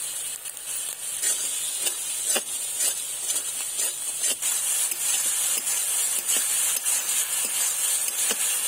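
Spice paste with turmeric sizzling steadily in hot oil in a metal kadai, with a metal spatula scraping and knocking against the pan as it is stirred.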